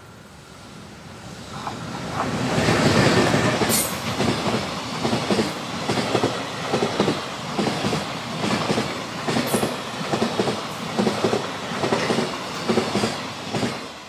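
EH500 electric locomotive hauling a container freight train past at speed: the rumble builds as it approaches and is loudest as it goes by, then the wagons' wheels clack in a steady rhythm of about two beats a second, with two brief high squeaks. The sound drops away suddenly as the last wagon clears.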